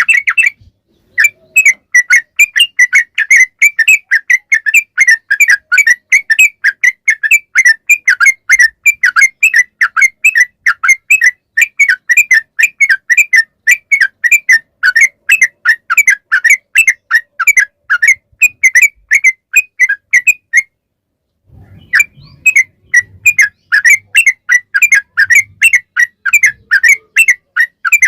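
Yellow-vented bulbul song: a long, rapid run of short whistled chirping notes, several a second, breaking off for about a second some 20 seconds in, then starting again.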